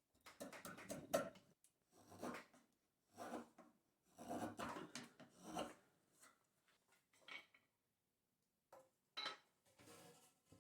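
A hand tool rubbing and scraping on wood in a run of separate strokes, each about half a second to a second long, with a longer pause a little after the middle.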